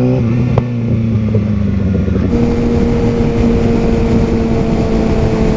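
Sport motorcycle engine running steadily, heard from the rider's helmet camera. About two seconds in, the engine note steps up to a higher steady pitch and wind rush grows as the bike gets moving.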